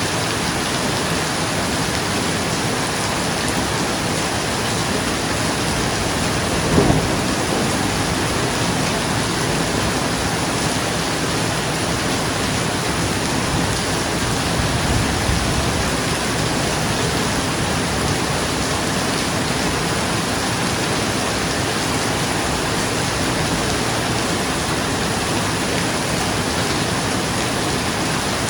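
Steady heavy rain falling on a roof, with a sharp, loud thunderclap about seven seconds in and a softer low roll of thunder around the middle.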